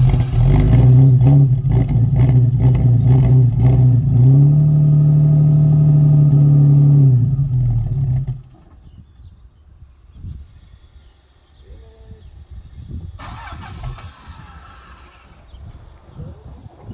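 Chrysler Hemi 265 straight-six in a CL Valiant Charger running unevenly, held at raised revs, then sagging and stalling about eight seconds in. The owner puts the stalling down to fuel starvation from dirty fuel lines, fed by a tank that was not cleaned before it was fitted.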